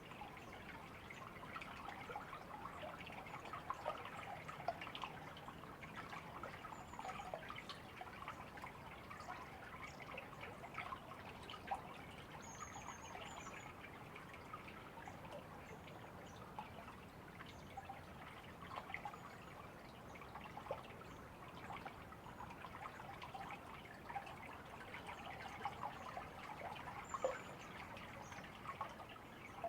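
Small stream trickling steadily, a continuous burble of many little splashes and drips.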